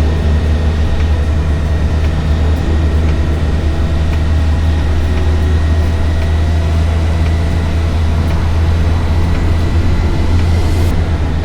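Engine running at a steady, constant speed: a loud, even low drone with no breaks or changes in pitch.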